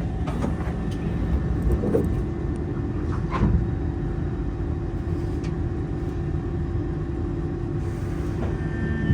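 Cabin noise of a Kawasaki C151 MRT train pulling out of a station after its doors close: a steady low rumble with a few knocks, and a steady hum that sets in about two seconds in.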